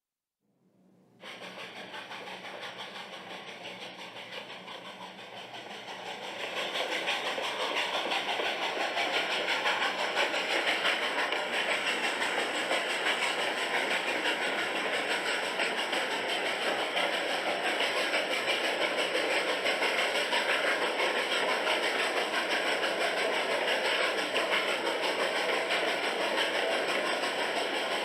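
Steady noise of a train running on rails, growing louder about six seconds in and then holding steady.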